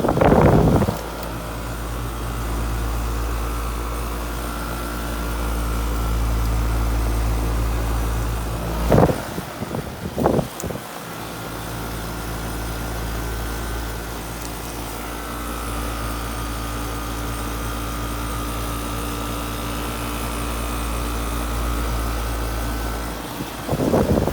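Steady low mechanical hum with a few steady tones, broken by a couple of sharp knocks about nine and ten seconds in; the low drone cuts off near the end.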